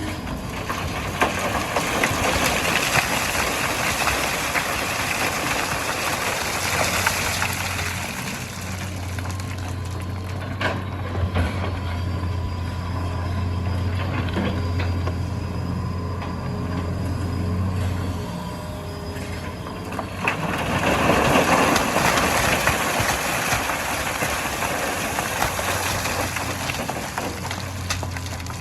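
Hitachi EX200 excavator working in sand, its diesel engine running steadily. Twice the sound swells into a louder rushing noise for several seconds, about a second in and again around twenty seconds in.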